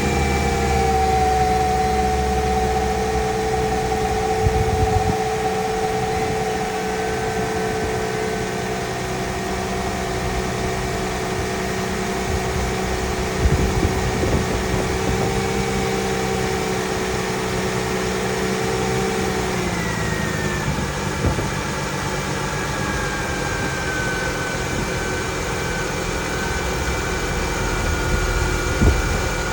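2001 Mercedes E320's 3.2-litre V6 idling steadily just after a cold start. About two-thirds of the way through, the engine note drops slightly as the cold fast idle settles lower.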